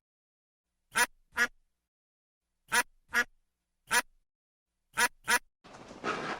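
Duck quacking: seven short, separate quacks, mostly in pairs, with silence between them. Near the end the quacks stop and steady outdoor background noise takes over.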